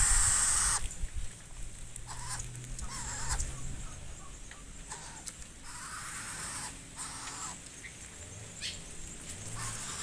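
Harsh, caw-like bird calls in short bursts, the loudest at the very start and fainter ones every second or two after, over a faint steady low hum.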